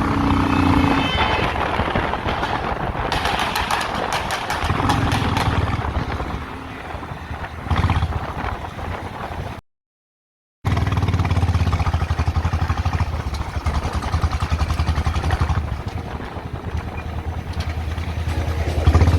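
BMW motorcycle exhaust, the engine running with several revs, the loudest near the end. It cuts to silence for about a second midway.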